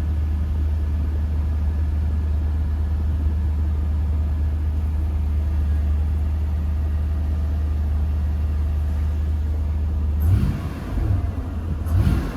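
1998 Toyota Land Cruiser engine idling after a cold start, a steady low drone. About ten seconds in the steady sound breaks up, with two short louder noises near the end.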